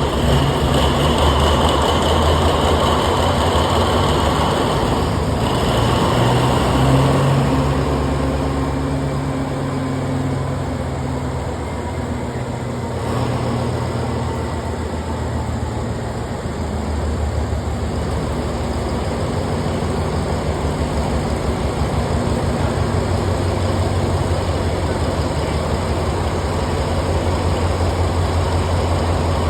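Pielstick 16PA4V sixteen-cylinder V diesel engine running just after starting. A high hiss fades away over the first several seconds, and the engine settles into a steady, even run.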